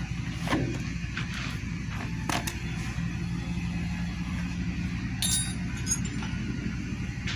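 Steady low motor hum, with a few sharp metallic clinks of hand tools on engine parts, the loudest a bright ringing clink about five seconds in.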